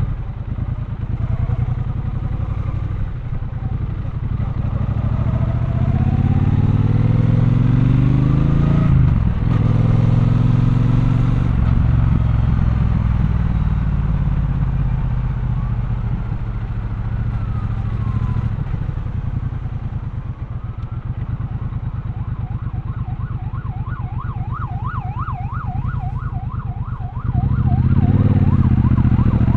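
Triumph Bonneville Bobber's 1200 cc parallel-twin engine running under way, pulling up through the revs a few seconds in and then cruising. Later an emergency-vehicle siren wails fast up and down, about two swings a second. Near the end the bike's engine opens up louder under acceleration.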